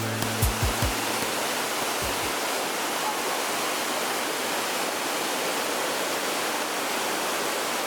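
Waterfall rushing: a steady, even hiss of falling water. A few short low thumps sound in the first second and once about two seconds in.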